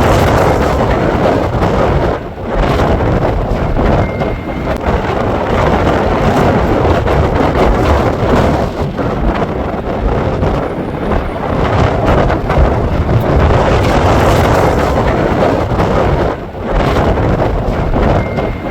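Strong gusty wind buffeting the microphone: a heavy, rumbling noise that eases briefly about two seconds in and again near the end.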